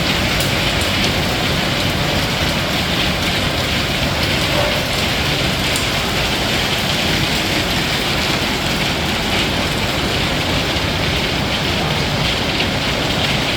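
Hailstorm: hail and heavy rain pelting down steadily in a dense, even hiss with a few sharper ticks of stones striking.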